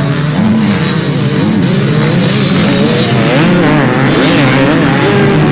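Several motocross bikes' engines revving together, their pitches rising and falling and overlapping as the riders work the throttle and shift gears.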